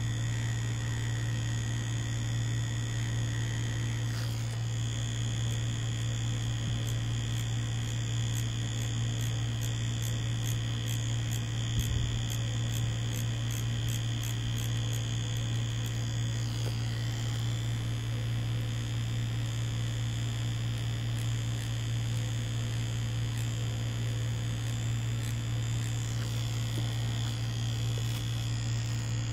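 Mummy Anubis tattoo machine running with a steady buzzing hum while tattooing fake skin. Its higher tones shift slightly twice, about four and sixteen seconds in.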